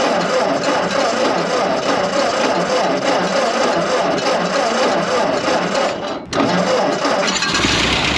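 Ford 8N tractor's four-cylinder engine being cranked over by the starter after sitting for years, with a brief break about six seconds in. Near the end the sound deepens as the engine begins to catch.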